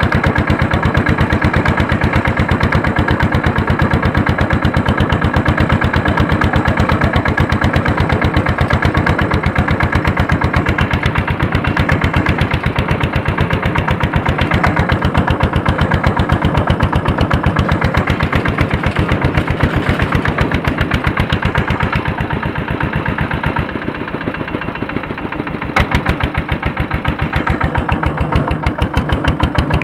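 Andoria diesel engine of a tractor pulling a harrow, running steadily under load with a fast, even chugging. About 23 seconds in it drops to a quieter, lower running for a few seconds, then picks back up at about 26 seconds.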